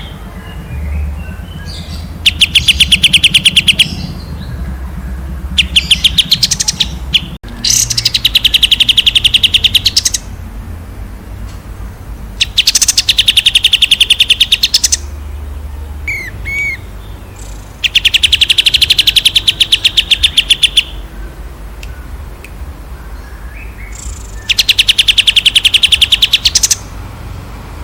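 A songbird singing loud, rapid trills, about six phrases of two to three seconds each, every phrase a fast run of sharp repeated notes with short pauses between. A low steady hum runs underneath.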